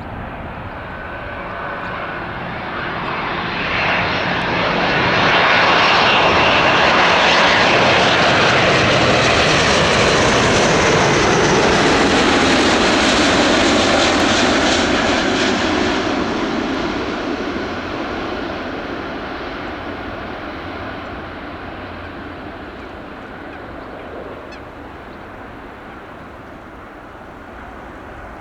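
A Boeing 777-200 airliner with twin GE90 engines on its landing approach flies close by. The jet noise builds, is loudest for about ten seconds as the aircraft passes with its pitch sliding down, then fades away.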